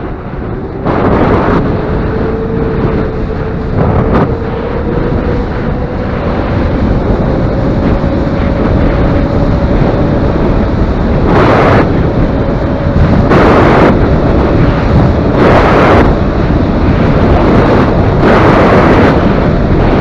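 Wind rushing over the microphone while riding a 72 V electric dirt bike with a 12 kW motor, the motor's whine rising slowly in pitch as speed builds. Several louder gusts of wind noise come in the second half.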